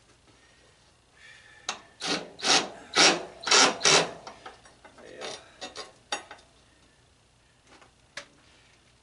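Rough scraping of metal on metal in about five quick, loud strokes, then a few lighter scrapes and a sharp clank, as a part of the old tanning bed is worked loose.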